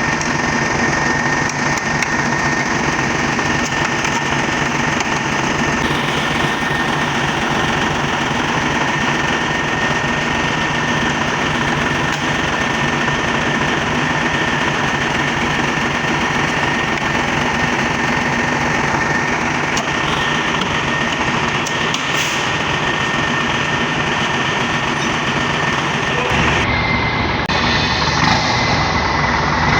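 Nissan truck's GE13 V8 diesel engine running steadily, with a thin, steady high whine over the engine noise. The sound changes abruptly about 27 seconds in.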